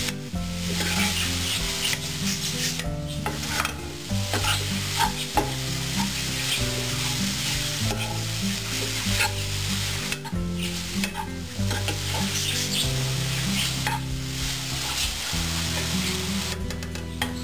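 Cabbage and tomato sizzling in a nonstick frying pan while a steel spoon stirs and scrapes through them, giving a run of small clicks and scrapes over the steady hiss. Low held musical notes run underneath.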